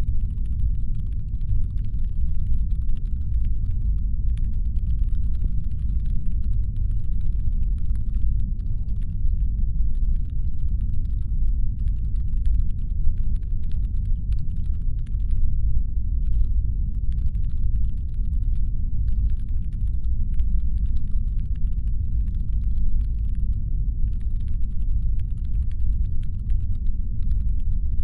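Designed brown-noise ambience meant as a spaceship's engine hum: a deep, steady rumble. A faint, fine crackle of clicks sits above it, starting and stopping in patches every few seconds.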